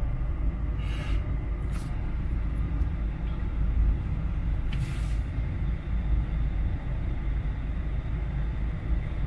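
Land Rover Freelander 2's engine idling, heard from inside the cabin as a steady low rumble; it is kept running to hold the battery charge during a software flash. A few brief rustles come about one, two and five seconds in.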